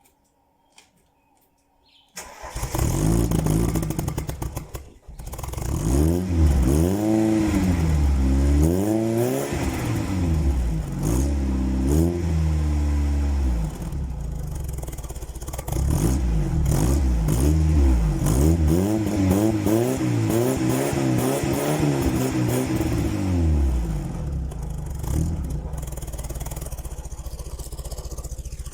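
Mk1 VW Golf (Rabbit) four-cylinder petrol engine cold-starting: it catches about two seconds in, nearly dies a couple of seconds later, then is revved up and down again and again before settling to steadier running near the end. The engine is cold after a rainy night, so it almost stalls and needs revving to keep going.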